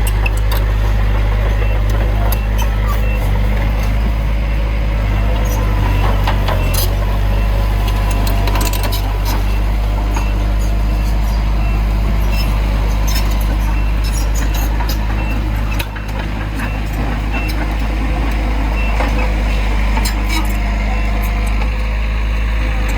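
Heavy diesel earthmoving machinery running steadily at a low pitch, with scattered metallic clanks and knocks. The engine eases off briefly about sixteen seconds in.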